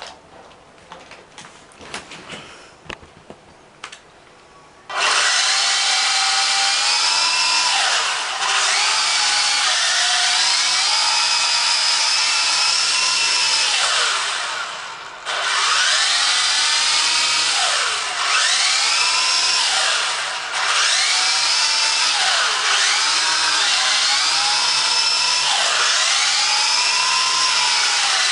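Syma S022G RC helicopter's electric motors and rotors spinning up with a sudden loud whine about five seconds in, after a few faint clicks. The whine's pitch sags and climbs back several times as the throttle is eased off and pushed up again.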